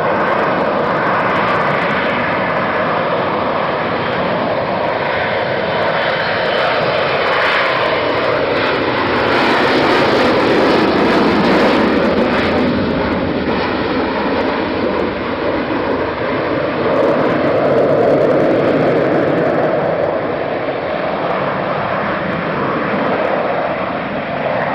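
Aircraft engine noise from a fixed-wing aircraft, loud and continuous. Its pitch sinks about halfway through and then climbs again.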